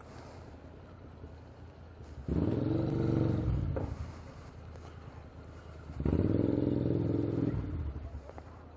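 Motorcycle engine accelerating twice in short bursts of about a second and a half, a few seconds apart, with a low engine drone between.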